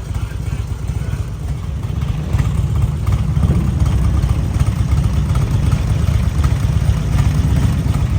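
Motorcycle engine rumble: a low, steady rumble that grows louder from about three seconds in.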